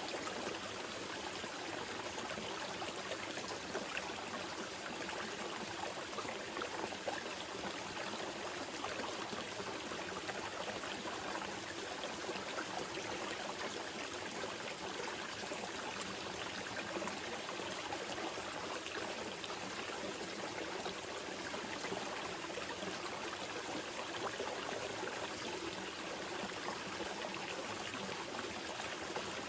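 Small mountain river flowing gently over stones: a steady, even rush of water with fine splashes and trickles.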